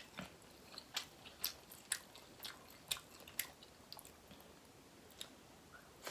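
Close-up chewing of a king prawn dipped in butter sauce: a run of sharp, wet mouth clicks and smacks.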